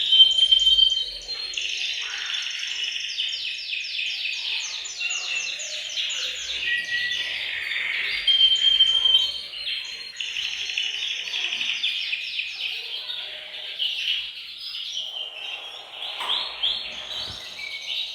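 Several male canaries singing together in overlapping song: fast rolling trills of repeated notes mixed with short, held whistled notes, with no break.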